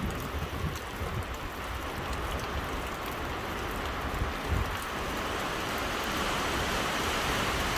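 Storm wind at gale force: a steady rushing noise that slowly grows louder as a gust builds.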